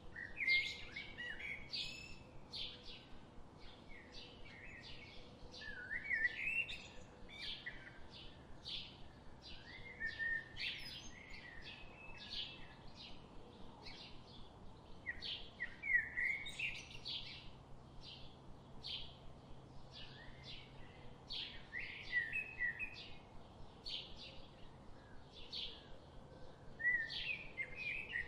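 Songbirds singing: a continuous run of short, high chirps, with a longer warbling phrase returning about every five seconds.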